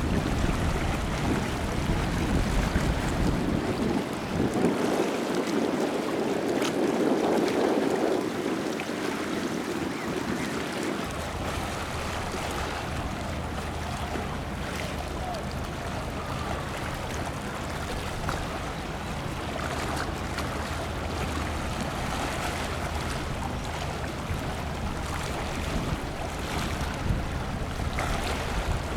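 Sea waves and wind making an even rushing noise. A low steady hum joins from about eleven seconds in.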